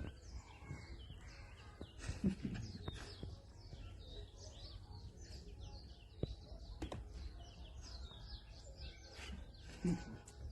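Many small birds chirping in quick, high, repeated calls over a low background rumble, with a few sharp clicks between them.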